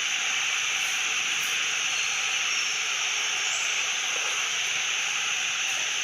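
Steady, even high-pitched hiss that does not change, with no clear beat or tone.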